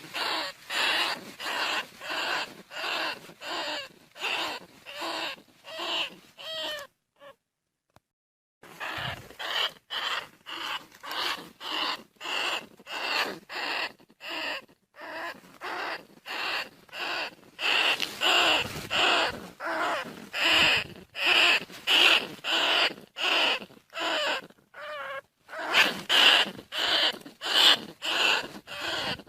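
Bandicoot rat calling: short squeaky calls repeated about twice a second, stopping for about two seconds a quarter of the way in, then resuming and growing louder near the end.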